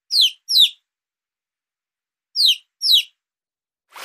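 Domestic chicken chick peeping: four short, high calls, each falling in pitch, given in two quick pairs about two seconds apart.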